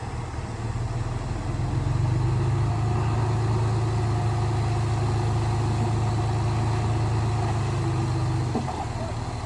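A miniature construction vehicle's engine running with a steady low hum that builds over the first two seconds, holds level, then drops off near the end with a brief knock.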